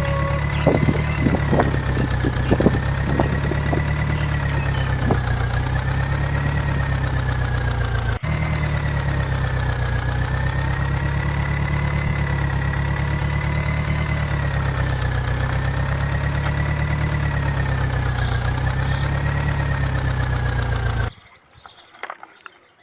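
Steady truck engine idling sound with a slowly wavering pitch, and a few sharp clicks in the first three seconds. It breaks off briefly about 8 seconds in and cuts off suddenly near the end.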